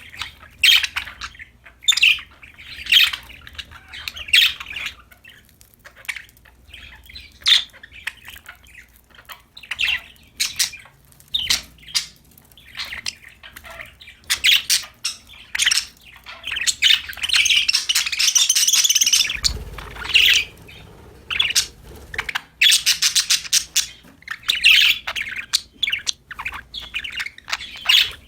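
Budgerigars chirping and squawking in many short, sharp calls. Past the middle come stretches of fast, continuous warbling chatter.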